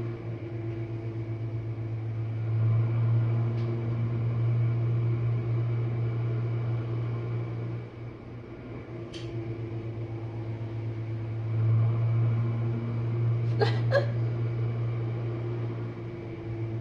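Jenn-Air dishwasher running its wash cycle: a steady low motor hum with water circulating, swelling and easing every few seconds and dipping briefly about halfway through. A couple of light clicks come about three-quarters of the way in.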